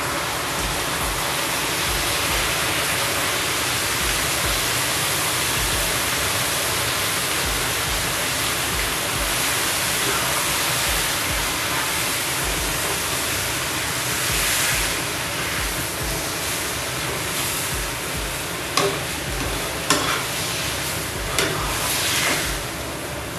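Noodles sizzling and frying in a wok on a gas burner as sauce goes in and a spatula stirs them. Three sharp clicks of the spatula against the pan come in the last few seconds.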